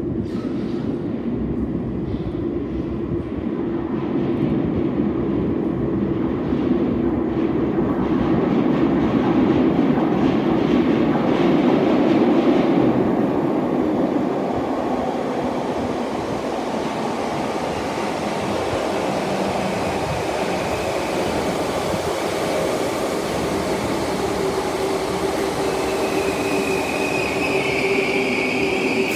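Merseyrail electric train coming in through the tunnel into an underground station platform. A rumble builds over the first dozen seconds and then holds steady as the train runs along the platform. A high squeal and a steady whine come in near the end.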